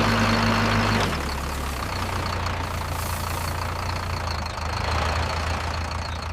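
Cartoon tractor engine sound effect: a low, steady running drone under a loud hiss, loudest for about the first second and then holding steady.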